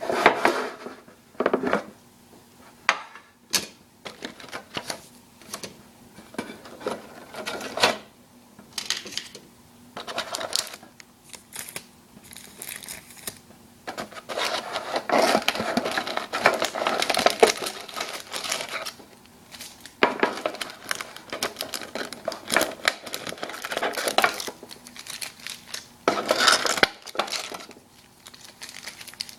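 Metal Yu-Gi-Oh! card tin being opened and its contents handled: irregular clicks, clanks and scrapes of the metal lid and body, with a longer, busier stretch of clattering about halfway through.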